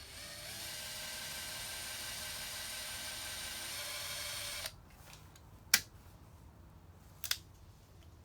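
Electric drill running steadily as it bores into the soft metal of a carburetor's throttle plate, stopping suddenly after about four and a half seconds. Two sharp clicks follow, about a second and a half apart.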